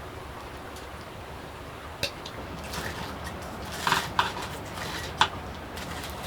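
A few light clicks and knocks, starting about two seconds in, over a steady low background rumble.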